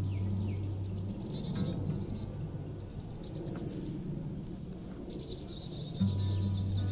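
A songbird singing short, fast trilled phrases, three in a row with pauses between, over a steady outdoor background hiss and a low steady hum at the start and near the end.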